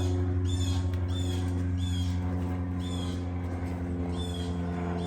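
A high chirping call repeated about every two-thirds of a second, like a bird, over a steady low hum.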